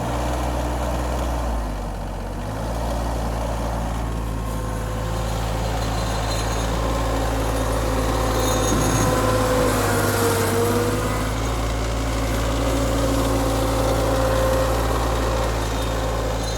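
Tractor engine running steadily, with small shifts in engine note a couple of times in the first few seconds.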